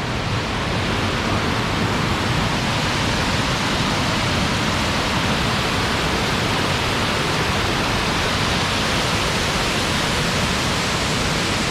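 Loud, steady rush of a waterfall close by, water pouring over rock.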